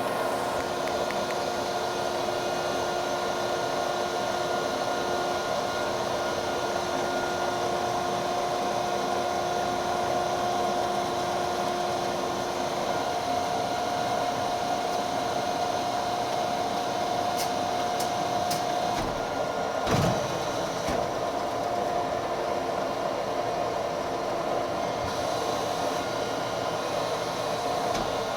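W.F. Wells W-10-2 dual-post horizontal bandsaw running steadily through its automatic cycle, the saw head feeding down through a wooden dummy workpiece. A steady hum, with a single thump about two-thirds of the way through.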